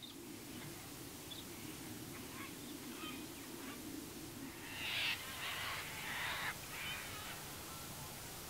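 Birds calling over quiet rural ambience, a cluster of loud harsh calls about five to six and a half seconds in, with a faint low hum through the first half.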